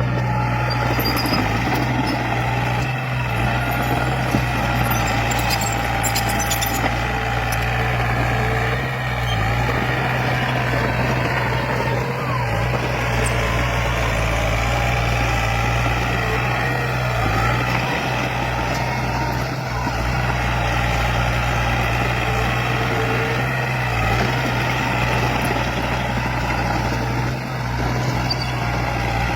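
Diesel engine of heavy earthmoving machinery running steadily, with a constant low engine note.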